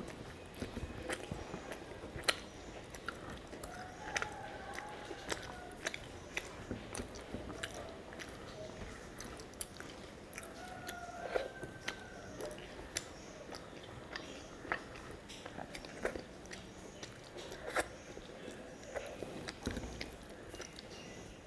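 Close-miked mouth sounds of a person eating rice by hand: chewing and wet lip smacks, heard as many short sharp clicks at irregular intervals.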